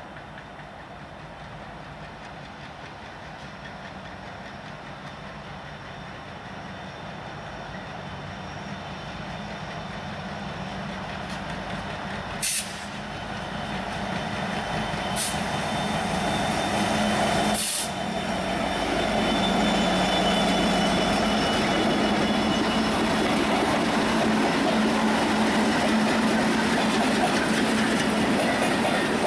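Train approaching, its low, steady drone and rumble growing louder over about twenty seconds and then holding loud as it arrives. Three brief sharp sounds come around the middle.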